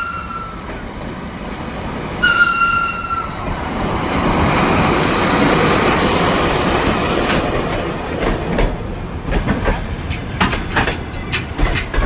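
EP1M electric locomotive sounding its horn in two high, steady blasts: the first ends just after the start, the second about two seconds in lasts about a second. The rumble of the arriving passenger train swells after it, and near the end the wheels clack over rail joints.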